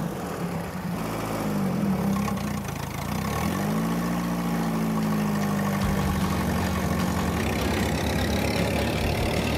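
A 60-horsepower car engine driving a 17-inch wheel through the differential on a test rig is revved up and down several times, then rises and is held at steady high revs as the wheel spins up, with a rough low buzz joining in near the end.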